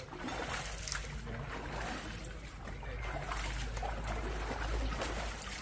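Water splashing and trickling in small, uneven sloshes, over a steady low rumble.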